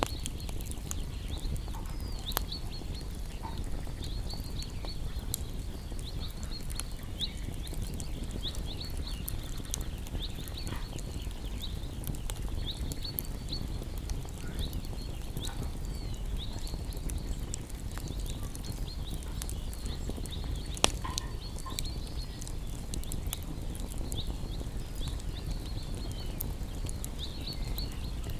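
Wood fire burning with a steady low rumble and scattered sharp crackles and pops, the loudest pop about 21 seconds in. Small birds chirp over it throughout with many short, high calls.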